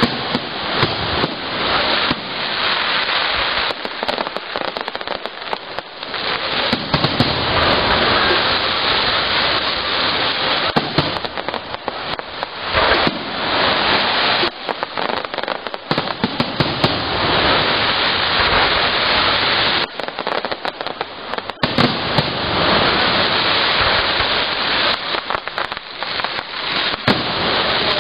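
Aerial fireworks shells bursting in quick succession: many sharp bangs over a continuous crackling hiss, with a few short lulls between volleys.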